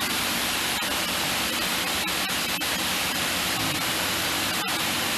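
Steady, even hiss with no other clear sound.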